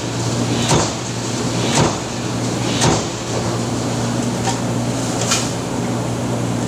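Factory power press cycling: a short sharp stroke about once a second over a steady machine hum, three strokes in the first three seconds, then a pause and one more stroke about five seconds in.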